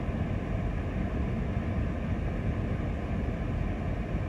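Steady low rumble inside a vehicle's cabin, with the engine running and the heater fan blowing.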